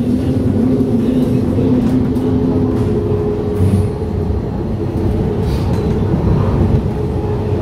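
Stadler FLIRT electric multiple unit (SAD ETR 170) running along the line: a steady rumble of wheels on rail under the hum of the traction drive. One hum tone fades about two and a half seconds in while a higher one carries on.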